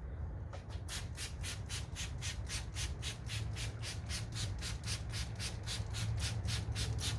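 A wet sanding pad rubbed back and forth in quick, even strokes, about four a second, with a squeaky rub on each stroke, starting about a second in.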